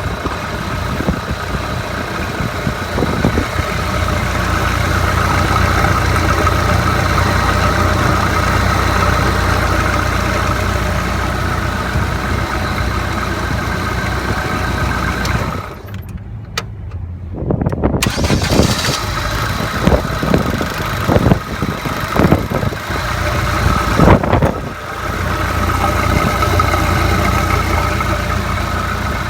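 H50FT small engine running steadily; about sixteen seconds in it nearly dies away for a couple of seconds, then picks up again and runs unevenly with irregular sharp knocks before settling back into steady running.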